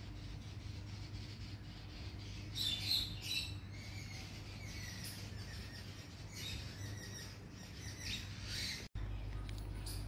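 Small birds chirping faintly, a few scattered calls, over a steady low hum.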